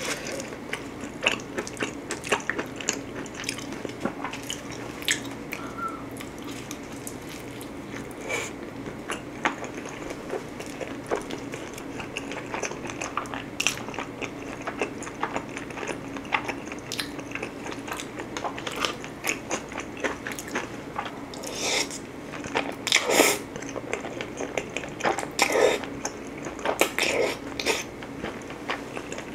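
Close-miked eating sounds: biting and chewing thin-crust pizza, with many short crisp crunches and wet mouth clicks. A cluster of louder crunches and smacks comes in the last third.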